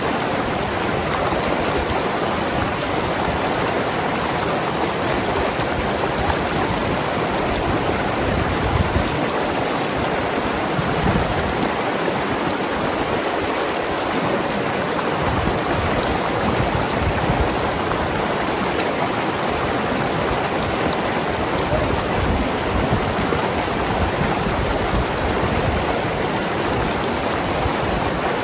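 Mountain river flowing and gurgling over rocks in a steady, even rush of water.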